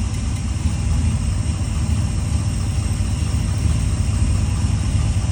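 Car engine idling with one spark plug wire pulled, that cylinder not firing: a deliberate misfire. It runs steadily with an uneven, choppy low pulse.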